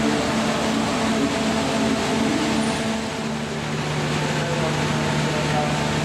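Steady running noise of a diesel-hauled passenger train with a constant low engine hum; a lower hum grows stronger about three and a half seconds in.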